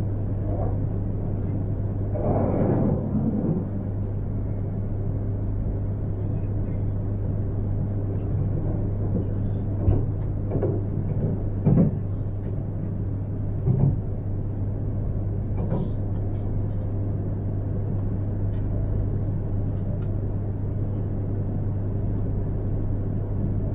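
Steady running noise inside the passenger cabin of an E3-series Shinkansen train: a constant low hum and rumble. A few short, louder sounds stand out between about ten and fourteen seconds in.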